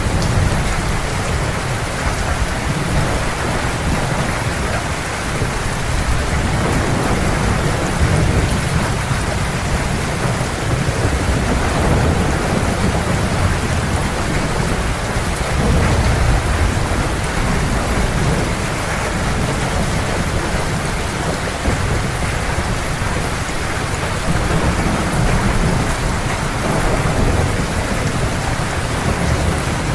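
Heavy rain falling steadily, with low thunder rumbling underneath and swelling several times.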